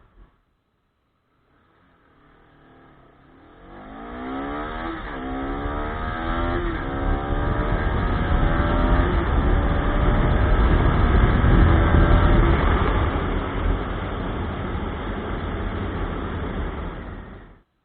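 Bajaj Pulsar RS200's single-cylinder engine accelerating hard through the gears. Its pitch climbs and drops back at each upshift: two quick shifts early, then longer, slower pulls as the speed builds. The sound cuts off suddenly near the end.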